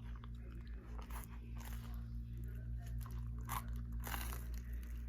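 A person chewing and crunching food close to the microphone, with several crisp bites and chews spread through the moment.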